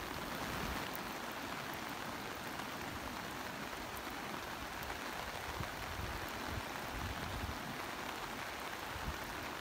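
Heavy monsoon rain falling steadily, an even dense hiss with an uneven low rumble underneath.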